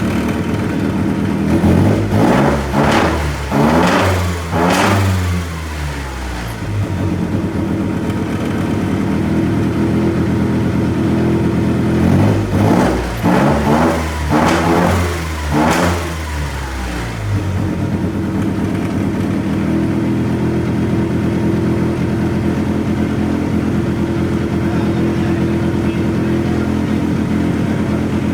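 Single-rotor Mazda rotary engine, built from half a 13B, idling steadily and revved in a cluster of three quick throttle blips a couple of seconds in, then four more blips about twelve seconds in, settling back to idle after each cluster.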